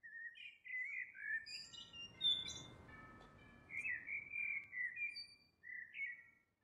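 Birds singing: a varied run of short chirps and whistled phrases, some sliding up or down in pitch, fairly faint.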